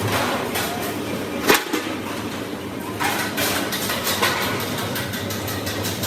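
Sheet-metal workshop noise: a steady machine hum under rough scraping and clattering, with one sharp metal strike about a second and a half in.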